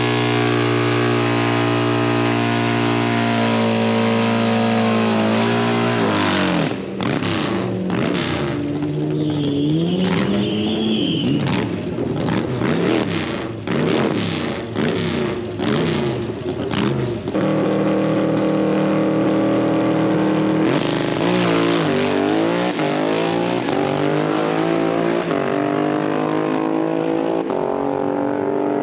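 Vehicle engines running and revving, their pitch climbing and falling several times. A run of sharp bangs comes through the middle.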